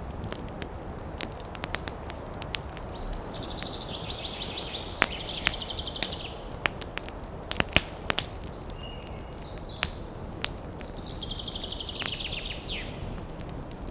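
Campfire crackling with scattered sharp pops over a steady rushing background of wind in the trees. A bird gives a rapid trill twice, about three and a half seconds in and again around eleven seconds, the second ending in a quick downward slur.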